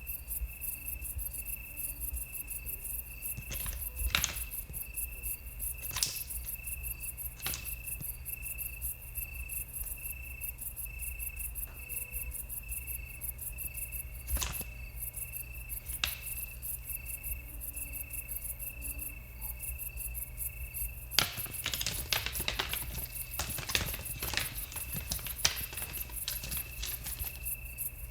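Crickets chirping steadily through a night scene, with sharp clacks of stags' antlers clashing every few seconds and a fast flurry of clashes about three-quarters of the way through.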